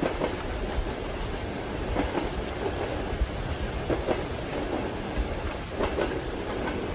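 Steady rain mixed with the low rumble of a moving train carriage and the occasional clack of its wheels over rail joints.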